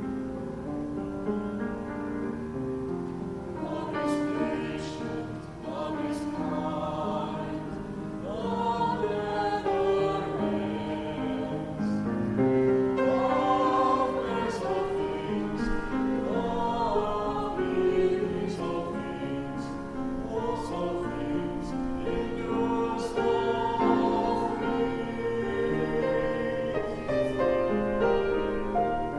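Church choir singing an offertory anthem with piano accompaniment; the piano plays alone at first and the voices come in about four seconds in.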